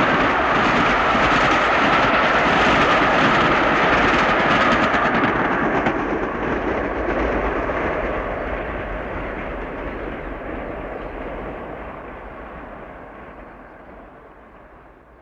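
Steam train running past, loud with a steady high tone in the noise for the first five seconds or so, then receding and fading steadily away, its higher sounds dying first.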